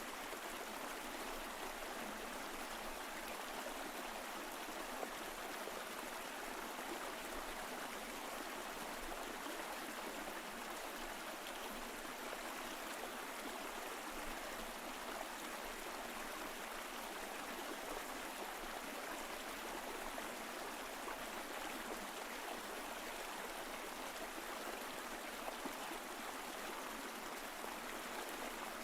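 Mountain stream flowing over rocks, a steady continuous rush and babble of water.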